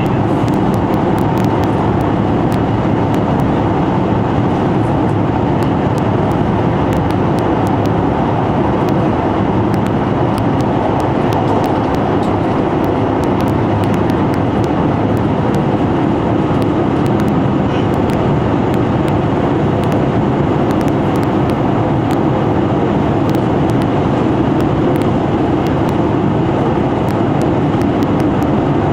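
Running noise inside a KiHa 261 series diesel limited express train at speed: a steady, loud rumble of engine and wheels on the rails, with faint scattered clicks.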